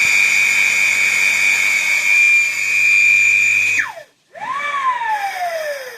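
ESPA Silen 1 hp pool pump's electric motor running with a loud, steady high-pitched whine over a low hum, which the owner finds noisy. About four seconds in the whine drops away fast to silence, then the motor runs up again briefly, its pitch rising and then slowly sinking as it winds down.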